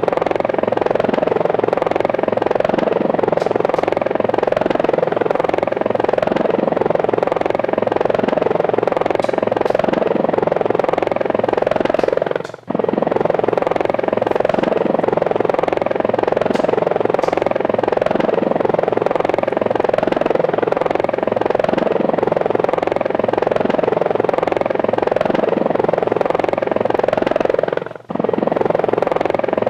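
Steady whir of helicopter rotors, cutting out briefly twice, about twelve seconds in and near the end.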